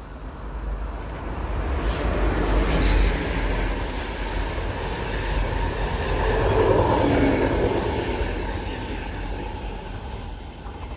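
A passenger train passing close by. Its rumble swells, peaks twice, then dies away toward the end, with a few sharp high clicks about two to three seconds in.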